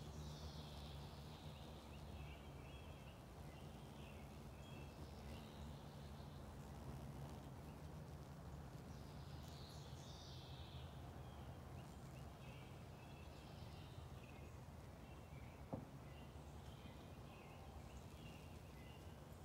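Faint outdoor garden ambience: a songbird repeats a short phrase every few seconds, a falling high note followed by a few choppy notes, over a low steady hum. One short click near the end.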